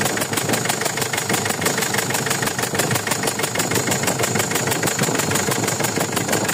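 Mazda BT-50's 3.0-litre WE four-cylinder direct-injection turbo-diesel idling steadily with an even, rapid rhythmic beat. The engine is leaking at the No. 3 injector.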